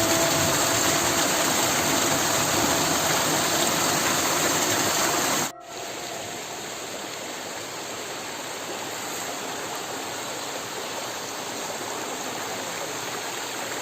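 Steady rush of water from the low-flow Meenmutty waterfall and its stream. About five and a half seconds in it cuts abruptly to a quieter stretch of the same water noise.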